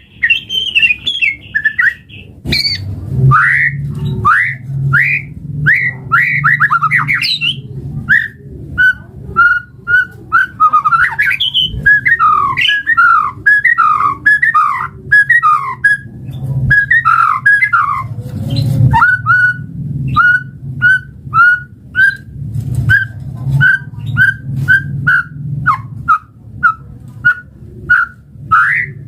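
White-rumped shama (murai batu) singing loud whistled phrases. A fast, varied run of notes comes in the middle, and a string of short repeated notes near the end, over a steady low hum.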